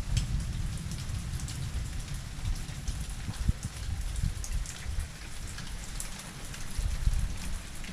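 Steady heavy rain falling, with scattered ticks of drops striking close by and an uneven low rumble underneath.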